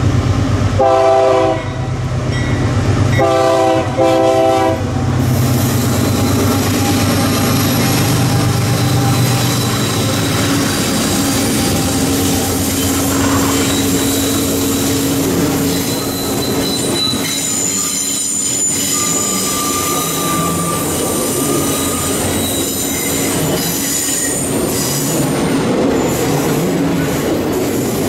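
GE diesel freight locomotives passing close by, sounding the horn in two short blasts near the start over the engines' low running. Then a long string of loaded hopper cars rolls by on a curve, with steady wheel noise and high-pitched wheel squeal that grows stronger about halfway through.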